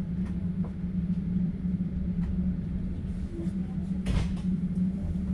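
Steady low rumble of a passenger train running, heard from inside an open-plan sleeper carriage, with a few light clicks and one brief sharp noise about four seconds in.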